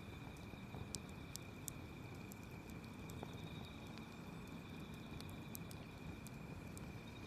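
Wood campfire crackling, with irregular sharp pops from the burning wood over a low rumble of flame. Behind it, insects trill steadily at a high pitch.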